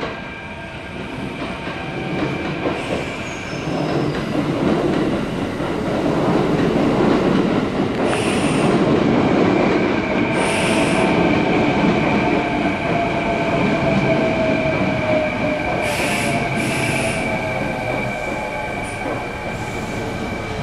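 Electric commuter train running into the station, its wheels and brakes giving several short high squeals, with a motor whine that slowly falls in pitch as it slows.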